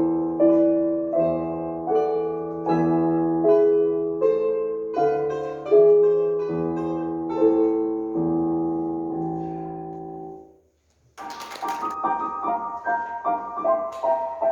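Piano playing a slow melody over chords, each note ringing and dying away. It breaks off about ten and a half seconds in, and after a moment's silence a quicker run of higher notes begins.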